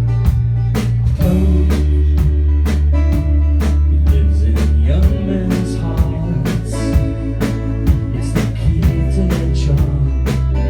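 Live pop-rock band playing an instrumental passage: a steady drum beat over bass and guitars, loud throughout.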